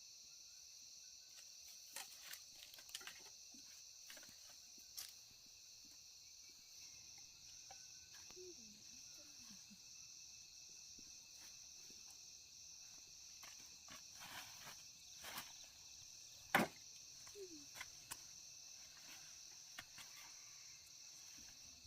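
Steady chorus of insects, with scattered faint clicks and knocks, one sharper knock about two thirds of the way in.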